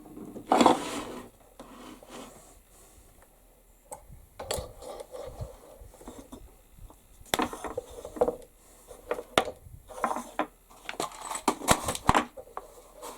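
Hand tools being sorted, picked up and set down on a workbench: irregular clicks, knocks and rubbing, busiest in a run of sharp clicks near the end.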